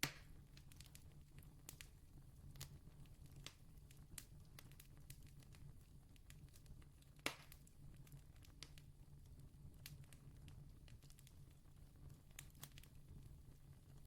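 Distant campfire crackling faintly: scattered small pops and snaps, with a sharper pop at the start and another about seven seconds in, over a low steady hum.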